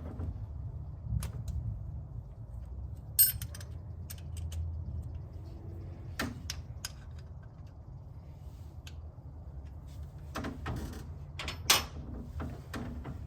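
Scattered clicks and knocks of tools and parts being handled on an engine's valve train, over a low steady hum. Two sharper clinks stand out, about three seconds in and near the end.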